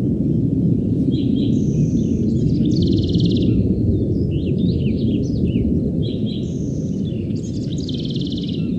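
A songbird sings the same phrase twice, a run of quick chirps and buzzy trills, over a steady low rushing noise that is the loudest sound throughout.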